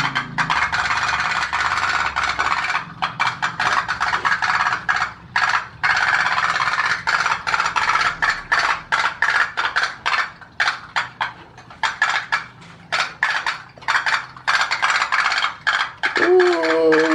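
Tin pop-pop boat engines putting rapidly: a dense, irregular run of small clicking pops from the steam-pulse engines. Near the end a short pitched call cuts in over them.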